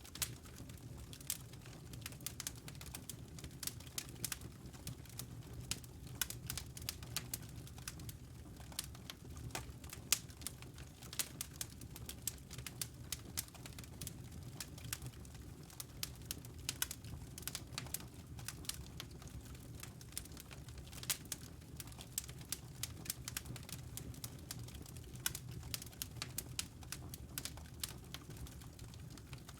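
Wood fire burning in a fireplace, crackling with many sharp, irregular pops and snaps over a steady low rumble of the flames.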